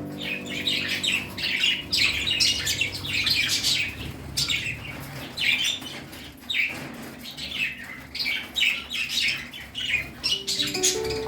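A flock of budgerigars chattering, with many quick overlapping chirps and squawks.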